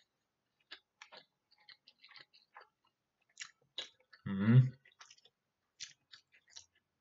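A person chewing a mouthful of grilled sausage and macaroni, with soft, scattered wet mouth clicks and smacks. About four seconds in comes a short hummed sound, the loudest moment.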